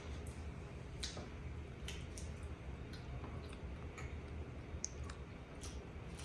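Faint, irregular soft clicks and mouth sounds of a person chewing a piece of cheese with her mouth closed, over a low steady room hum.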